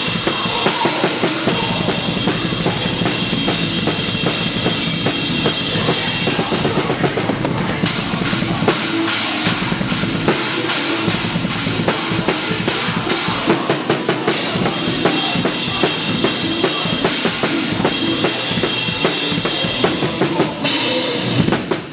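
Band playing live, with the drum kit loud and close: dense rapid kick and snare hits under a bright cymbal wash. The sound drops away sharply near the end.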